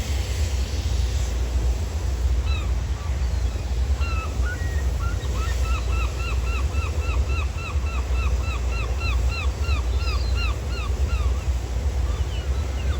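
Gulls calling: a few single calls, then from about five seconds in a long run of quick repeated yelping notes, about three a second, lasting some six seconds. Under them runs a steady low rumble of wind and waves.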